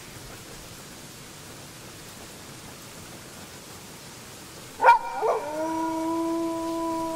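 A faint steady hiss, then about five seconds in a sudden loud onset as a wolf howl begins: a short bend in pitch that settles into a long, steady, held note.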